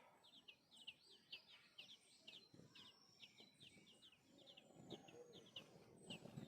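Small birds chirping: many short, high chirps repeated several times a second, with several birds overlapping. A lower, rougher sound grows beneath them over the last two seconds.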